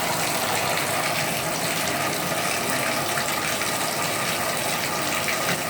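Water running steadily at full flow from a shower whose Moen valve cartridge has just been replaced, turned on to test that the leak is fixed.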